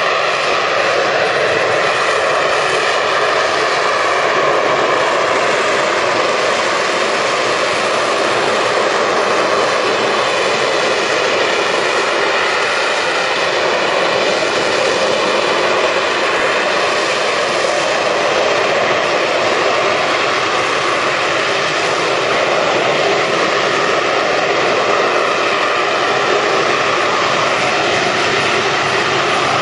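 Harrier jump jet's Pegasus vectored-thrust turbofan hovering: a loud, steady jet roar whose tone slowly wavers.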